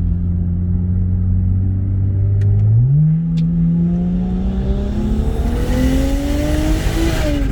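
BMW 335i's N54 inline-six, converted to a single GT35 turbo, accelerating hard. The engine note holds steady, jumps up about three seconds in, then climbs steadily for about four seconds with a growing rush of air, and drops slightly near the end. A few sharp clicks come just before the climb.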